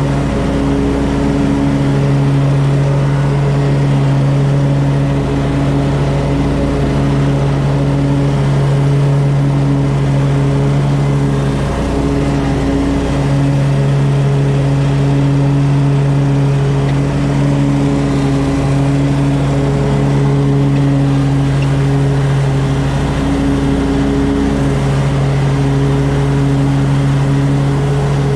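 An engine running steadily at one constant pitch, with a couple of brief dips in its note.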